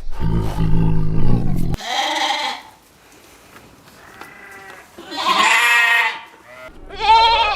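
A deep animal roar that ends about two seconds in, followed by three wavering goat bleats.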